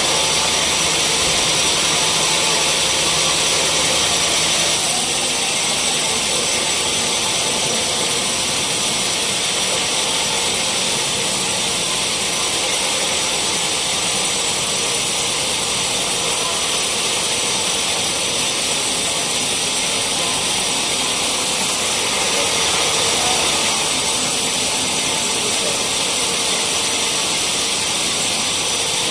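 Sawmill saw running steadily with a dense, high-pitched hiss. A low hum drops out about five seconds in.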